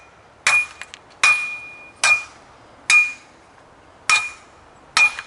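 A hammer striking the cast aluminum of a DeWalt air compressor six times, about one blow a second, each with a short metallic ring, breaking the aluminum off for scrap.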